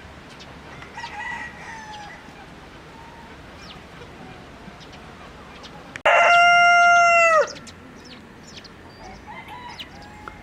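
Rooster crowing once, about six seconds in: a loud call held about a second and a half that drops in pitch at the end. A fainter chicken call comes about a second in, and short high chirps are scattered throughout.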